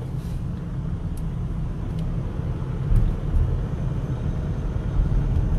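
Low, steady engine and road rumble heard from inside a moving car's cabin.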